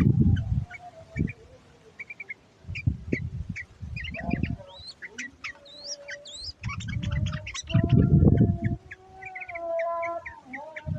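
Yellow-vented bulbuls chattering in quick short chirps, with a few rising whistles, in a trucuk lure call for wild birds. Several loud low bursts of noise break in, the loudest about two-thirds of the way through.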